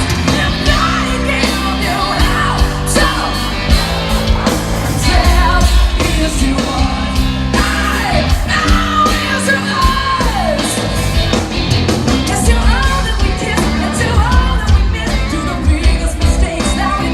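A rock band playing live at full volume, with a heavy bass and drums under a singer's voice that slides and yells.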